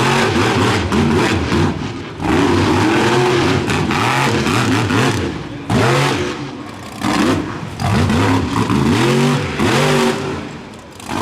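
Monster truck engine revving hard, its pitch climbing and falling again and again as the throttle is opened and let off, with short lulls in between.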